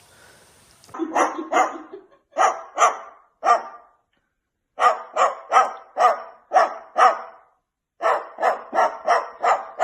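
A dog barking repeatedly in quick runs of short barks, with a pause of about a second around four seconds in.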